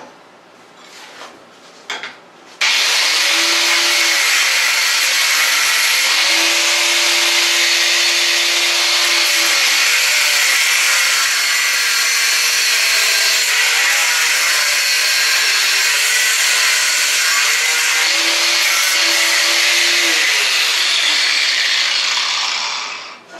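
Electric tool with an abrasive cutoff wheel cutting through a steel table leg. A loud, steady grinding hiss starts abruptly a couple of seconds in and runs for about twenty seconds, with a lower tone that wavers and dips at times. It winds down near the end.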